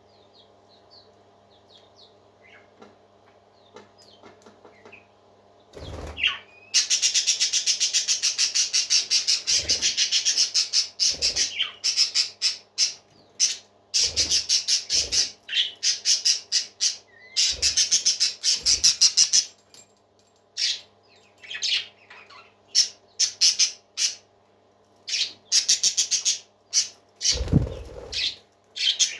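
Parakeets chirping and chattering: faint scattered chirps at first, then from about seven seconds in a loud run of rapid, high-pitched chattering calls in repeated bursts, with a few low thumps among them. A steady low hum runs underneath.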